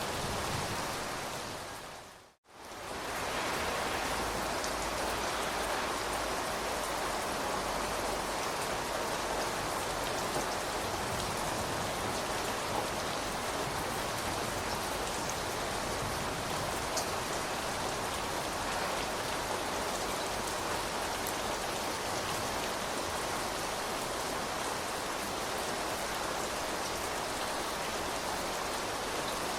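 Steady rain falling, an even hiss of drops on a surface. About two seconds in it briefly fades out to silence and back in, where the recording is joined.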